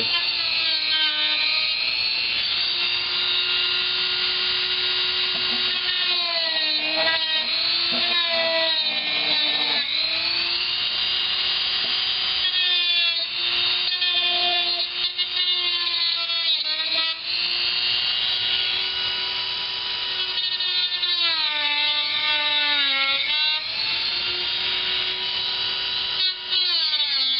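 Dremel rotary tool running at high speed and cutting into a laptop's plastic bottom case: a steady high whine whose pitch sags several times as the bit bites into the plastic, then recovers.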